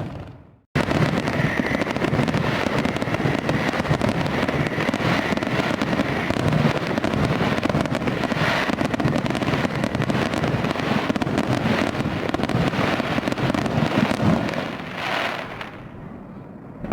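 Fireworks display: a dense, continuous barrage of bangs and crackling that cuts in abruptly after a brief silence about a second in, with a stronger burst near the end before it dies down.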